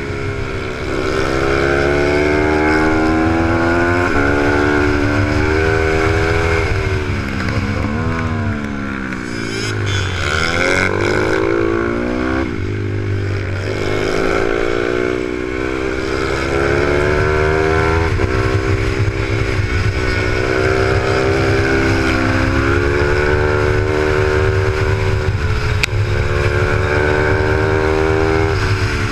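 Z155 pit bike's single-cylinder four-stroke engine revving hard in repeated rising sweeps that fall away sharply, a few times over, as the bike is ridden at full race pace through gear changes, braking and corners. Wind rushes over the bike-mounted camera throughout.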